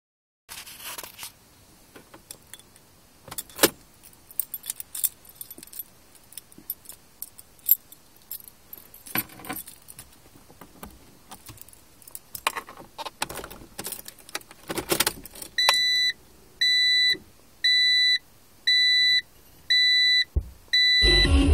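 A car key jangling and clicking against the key ring and ignition, with scattered knocks. Then an electronic chime in the car beeps six times, about once a second.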